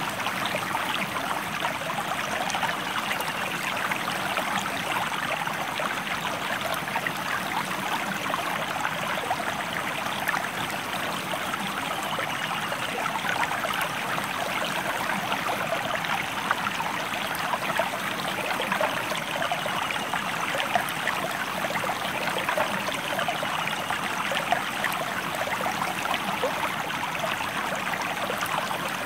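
River or stream water flowing steadily, a continuous rushing with fine splashing detail.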